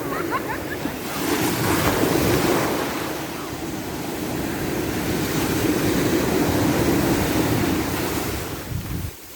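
Ocean surf: waves breaking and washing up the shore, swelling twice, with wind buffeting the microphone. The sound drops away suddenly near the end.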